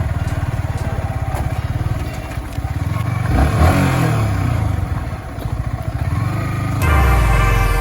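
Motorcycle engine running while being ridden, its pitch rising and falling briefly about halfway through. Background music cuts in abruptly near the end.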